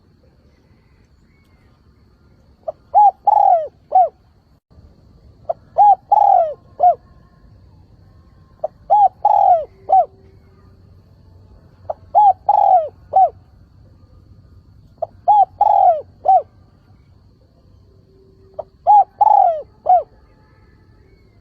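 Spotted dove cooing its calling song, a decoy bird's call used to draw in wild doves. It gives short phrases of three or four coos, repeated six times about every three seconds, the first starting about three seconds in.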